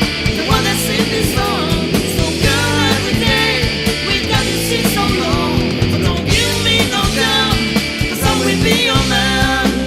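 A rock band playing a song recorded as a demo: drums, bass and guitars, with a bending melodic lead line over the top.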